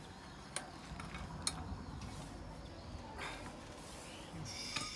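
A few light clicks and knocks, then a brief metallic clink that rings near the end.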